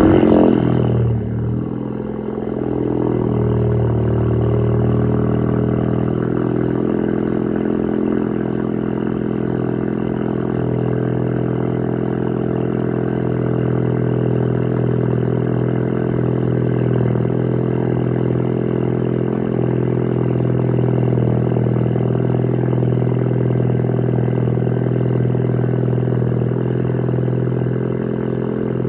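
Ford Focus ST turbocharged engine on a cold start: it catches with a brief rev flare at the very start, dips, then rises and settles into a steady, fast cold idle.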